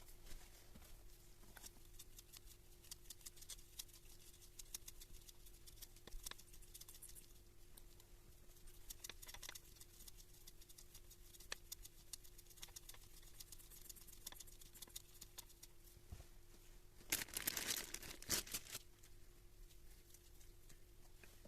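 Scattered light clicks and small knocks over a faint steady hum, with a louder burst of clatter and rustling about seventeen seconds in.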